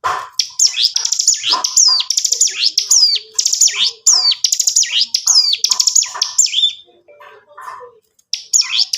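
Ciblek gunung, a prinia, singing fast, continuous song: phrase after phrase of rapid buzzy trills and sharp falling whistles. The song breaks off about seven seconds in, then picks up again near the end.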